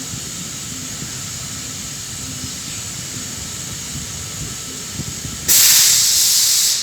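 Natural gas hissing at the rotary kiln's burner. A steady hiss runs until about five and a half seconds in, when a much louder rush of gas starts suddenly, lasts just over a second, and then drops away.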